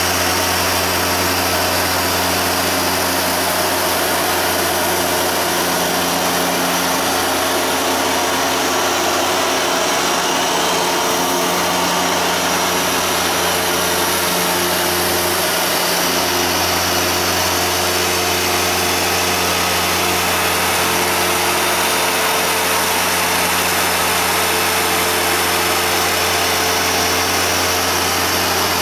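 Hoover Dual Power Max carpet washer running steadily: its motor hums under a loud, constant rush of suction as it scrubs and draws dirty water up out of the carpet. The low hum dips briefly about halfway through.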